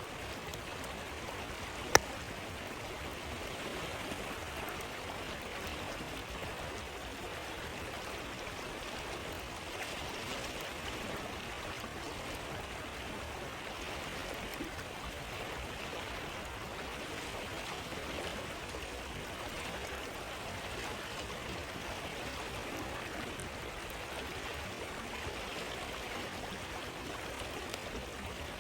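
Steady rushing and gurgling of a flowing stream, with one sharp pop from the campfire about two seconds in.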